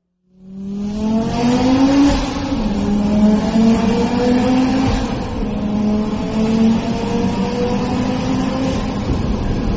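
Audi RS2's turbocharged 2.2-litre five-cylinder engine accelerating hard, heard from inside the cabin in a tunnel. It fades in just after the start, and its note rises and drops back with each upshift.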